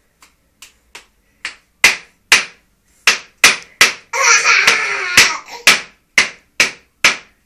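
Repeated sharp knocks, about two a second, starting faint and soon loud, with a noisy stretch about a second long in the middle.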